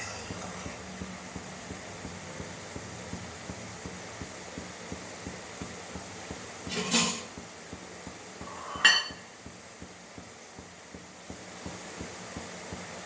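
Two clatters of a utensil against a cooking pot, one about seven seconds in and a sharper one about two seconds later, over a steady low hiss.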